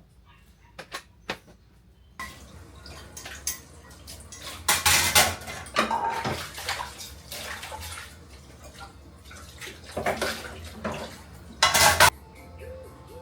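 Dishes and cutlery clattering with splashing water, as in washing up. There are a few sharp clicks in the first two seconds, then louder bursts of clatter and splashing about five, ten and twelve seconds in.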